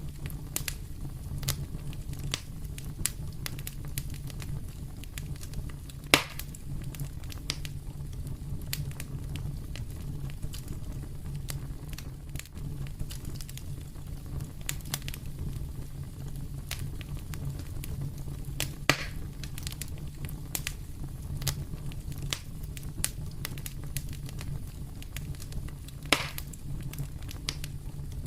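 Wood fire burning in a fireplace, crackling with irregular sharp pops over a steady low rumble; three louder pops stand out, about 6, 19 and 26 seconds in.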